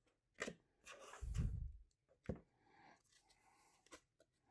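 Trading cards being handled and flipped through: light clicks of card edges and soft rustling, with a louder rustle and low thud about a second in.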